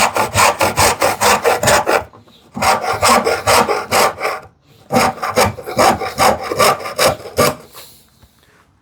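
Hand saw crosscutting a wooden board, quick rasping strokes about five a second, with two short pauses before the cut finishes near the end.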